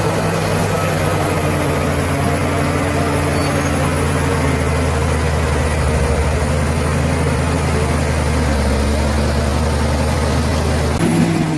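Bulldozer's diesel engine running steadily with a deep, even hum, then dropping off abruptly near the end. A faint high whine runs above it.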